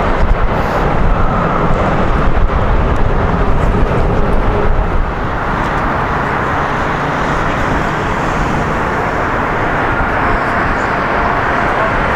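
Jet airliner engines: a loud, steady rumble and rush of an aircraft near the runway, easing slightly about five seconds in.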